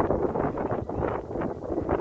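Wind buffeting the microphone in uneven gusts, a rumbling noise without any steady tone.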